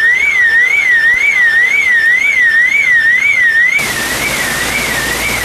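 Electronic siren wailing with a tone that rises and falls about twice a second. About four seconds in, a dense rush of rain-like noise comes in and the siren drops lower.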